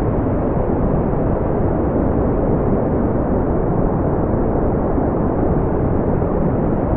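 Steady brown noise: an even, deep rumbling hiss with most of its weight in the low end and no highs, unchanging throughout.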